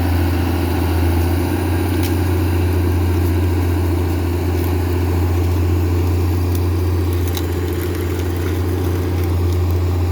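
Diesel engine of a John Deere 848H grapple skidder running steadily at an even speed, with a few faint clicks or knocks.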